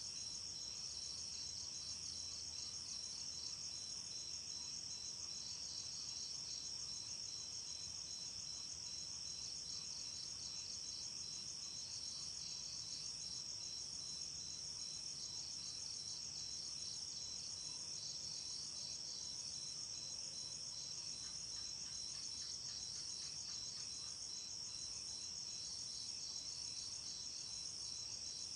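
Night insects, crickets by their sound, chirring in a continuous high-pitched chorus with a fast, even pulse. A second, lower trill fades in and out behind it.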